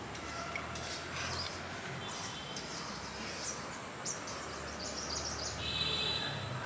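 Outdoor rural ambience with birds chirping, including a short buzzing trill about two seconds in and a louder one near the end.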